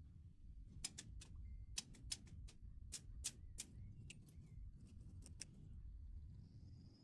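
A quick, irregular run of about a dozen light, sharp clicks over a faint low rumble, stopping about a second and a half before the end.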